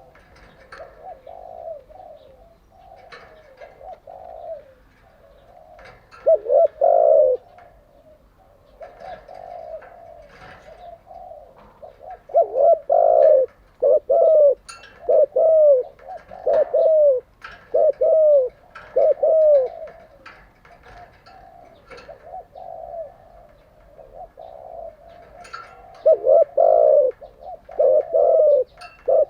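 Spotted dove cooing: repeated low, curved coo notes, softer phrases at first and then loud runs of several coos about a quarter of the way in, through the middle and again near the end. Faint short chirps sound between them.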